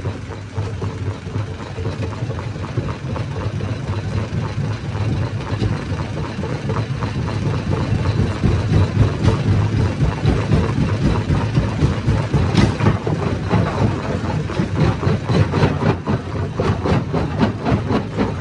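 Hammer-type stone crusher running under load: a steady low machine drone with a dense, irregular rattle of knocks as rock is broken. It grows a little louder after about eight seconds, with one sharper strike about two-thirds of the way through.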